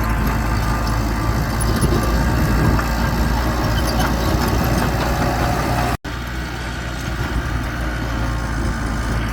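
Heavy earthmoving machinery's engine running steadily at a low, even pitch. The sound drops out for an instant about six seconds in, then resumes slightly quieter.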